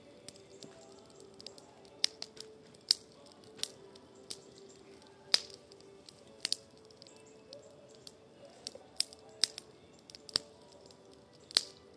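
Wood campfire crackling: irregular sharp pops and snaps at uneven intervals, a few of them much louder than the rest.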